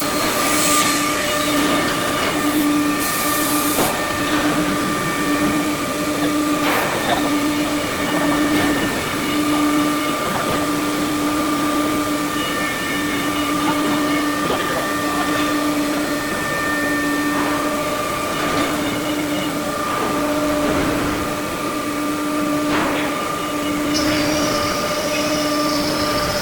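Five-axis CNC machine running: a steady mechanical hum with a whine at several fixed pitches, its lowest tone swelling and fading about once a second. A higher whine joins near the end.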